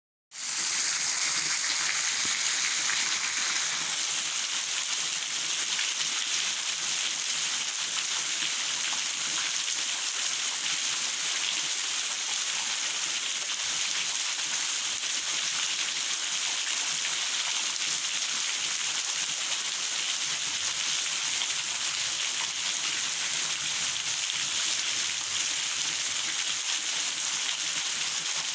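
Steady rain falling, an even hiss of many drops without letup.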